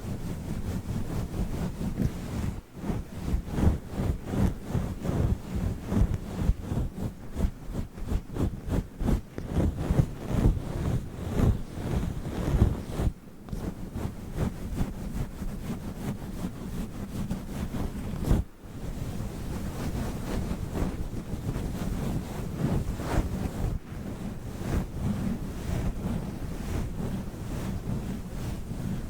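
Fluffy microphone cover being rubbed and brushed right on the microphone, giving a low, muffled rustling. It comes in quick, dense strokes for the first half, then settles into a steadier, softer rustle after a brief break.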